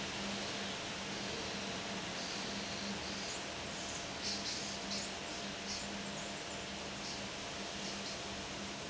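Steady wind noise, an even hiss, with a faint low hum under it and a few short high-pitched chirps around the middle.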